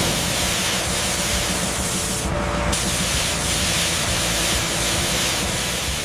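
A loud, steady spraying hiss of pressurised air or fluid, its highest part briefly thinning about two and a half seconds in.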